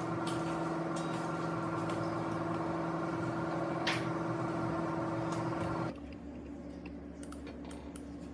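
A small electric motor, such as a workshop power tool, running at a steady pitch. It starts suddenly, gives one sharp click about four seconds in, and cuts off about six seconds in.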